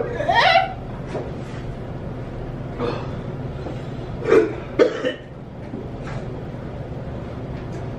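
A man coughing, with two sharp coughs about half a second apart a little past halfway, his mouth burning from an extremely hot chili-pepper chip.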